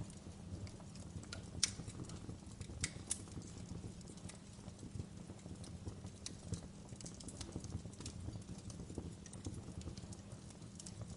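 Wood fire crackling: scattered sharp pops and snaps over a low steady rumble of burning, with a few louder pops about two to three seconds in.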